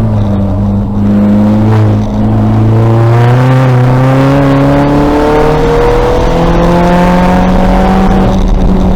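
2000 VW Golf race car's engine running hard on track. The revs dip briefly about two seconds in, then climb steadily under acceleration for about six seconds, easing off near the end.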